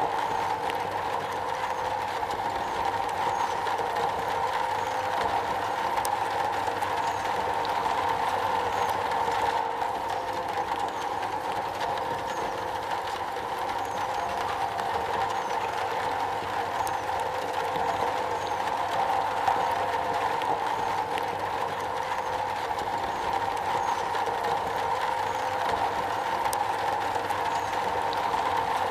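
Steady rain falling on a metal roof, a dense, even patter that doesn't let up.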